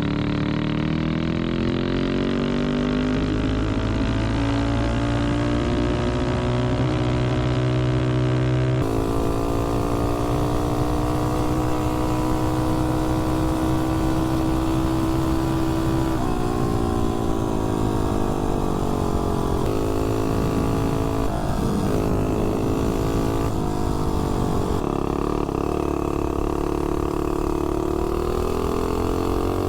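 Tillotson 225 single-cylinder engine on a mini bike, fitted with a Volts 330 cam, running hard on a top-speed run. Its pitch climbs for the first eight seconds or so, then holds high, falling and rising again a few times later on.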